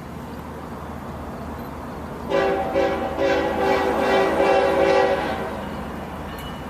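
Diesel locomotive air horn sounding a couple of short blasts and then one longer blast, several notes at once, over a steady low rumble of the train.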